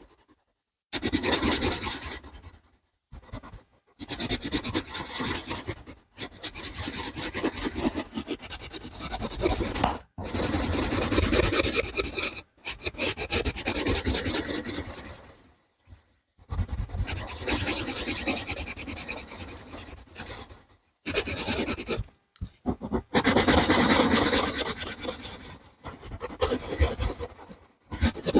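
A drawing tool scratching rapidly back and forth on paper while colouring in. It comes in stretches of about two to three seconds, broken by short pauses.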